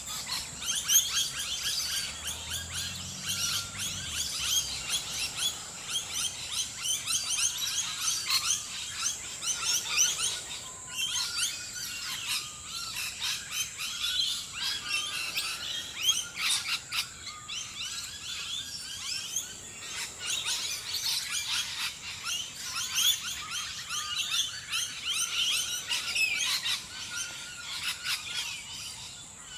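Many birds chirping and calling at once in a dense morning chorus, with short rapid chirps and trills overlapping throughout.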